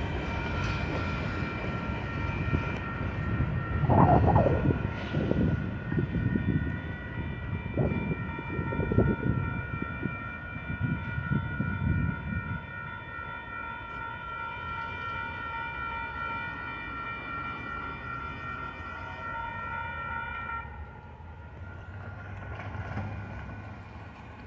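Freight train's last cars rolling away over the rails, wheels clattering and rumbling, loudest a few seconds in and fading after about twelve seconds. A railroad crossing warning bell rings steadily throughout and stops suddenly about twenty seconds in.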